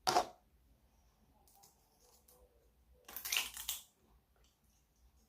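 Sauce squeezed out of a bottle into the pan in two short, spluttering squirts: a sharp one at the start and a longer, crackly one about three seconds in.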